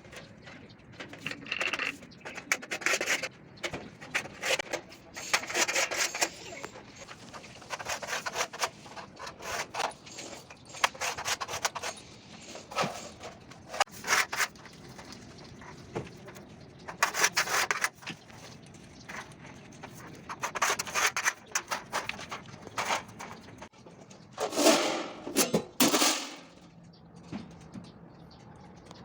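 Steel scriber scratching lines into a sheet-metal floor pan, in irregular drawn strokes with short pauses between them; two louder strokes come near the end.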